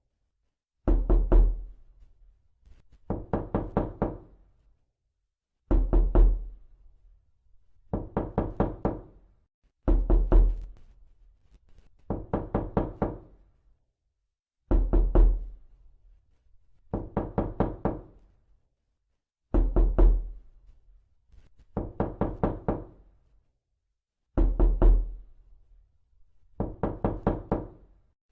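Knocking in short bursts of four to six quick raps, a burst about every two and a half seconds, steady and repeated; some bursts carry a heavier, deeper thud.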